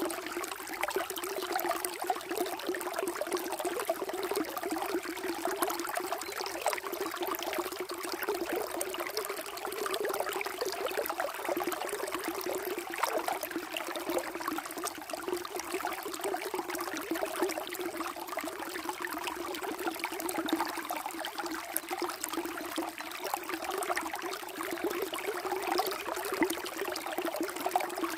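Water running and trickling steadily, a continuous splashing burble with fine crackles.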